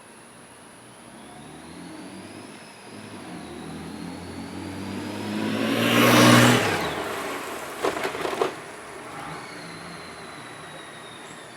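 A 2012 Honda Gold Wing's flat-six engine approaching and passing close by, loudest about six seconds in, then fading away. A short rattle of clicks follows about two seconds after the peak.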